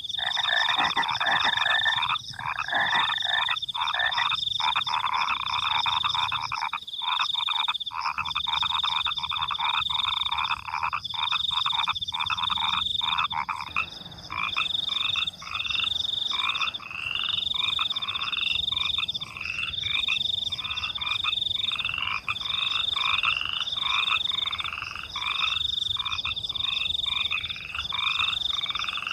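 Night chorus of frogs croaking, with crickets chirping over it in a high, regular pulsing trill. About halfway through, the dense frog chorus thins into separate croaks.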